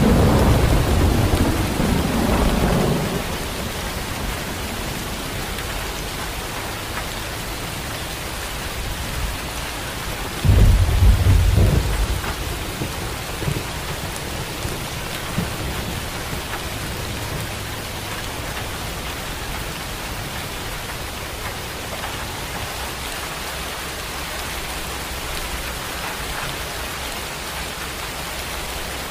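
Steady heavy rain with two rolls of thunder: a low rumble over the first three seconds, and a second, sudden one about ten seconds in that lasts a second or two.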